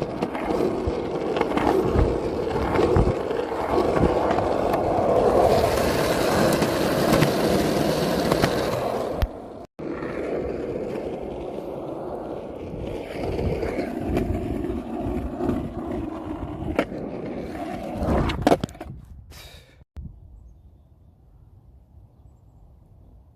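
Skateboard wheels rolling over pavement in a steady rumble, with a few sharp clacks. The rolling breaks off for a moment near the middle and stops about twenty seconds in.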